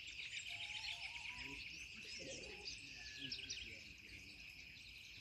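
Several wild birds chirping and calling in short, quick notes over a steady high insect trill, with a brief lower whistled note about a second in.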